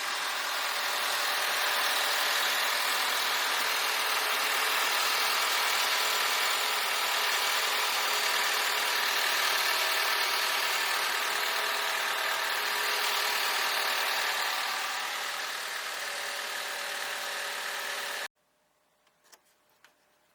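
Honda Step WGN's engine running steadily at idle, a constant mechanical hum that cuts off suddenly near the end.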